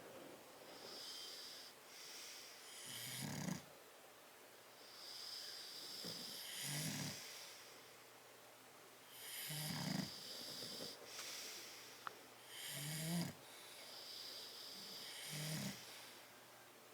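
Sleeping bulldogs snoring: a low snort about every three seconds, five in all, with a high, whistling wheeze on the breaths between.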